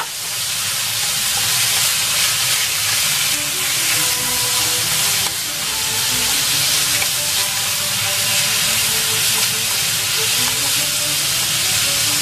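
Sliced beef and chunks of eggplant sizzling in hot oil in a frying pan as they are stirred with chopsticks: a steady frying hiss.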